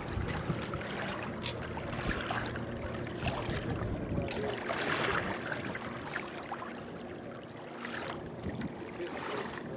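Water washing and trickling against the hull of a small sailboat under way, with a louder swell about five seconds in.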